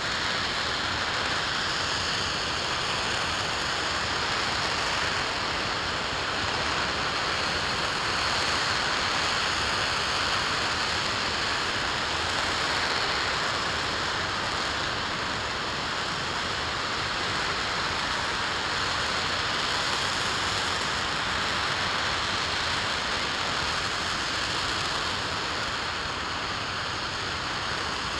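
RS-25 liquid-hydrogen/liquid-oxygen rocket engine firing steadily in a static test: a continuous, even rushing noise that holds the same level throughout.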